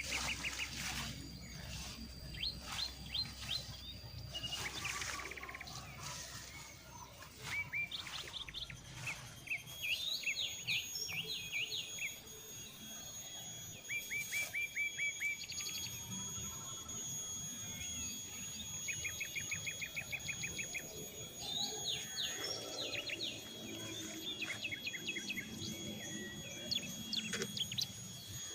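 Wild forest birds chirping in quick repeated series of short notes, several calling in turn, over a faint steady high tone.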